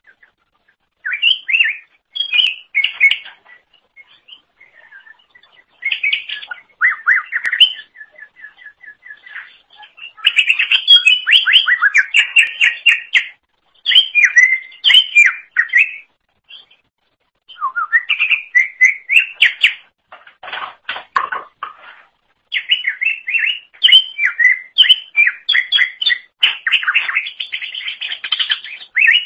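Cucak ijo (green leafbird) singing, rapid runs of quick sweeping whistled and chattering notes in bursts of a few seconds, separated by short pauses.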